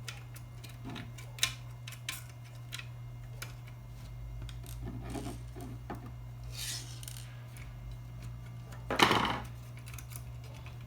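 Light metal clicks and scraping of a 10 mm wrench working a nut loose on an amplifier's chassis, with a louder rasping scrape about nine seconds in.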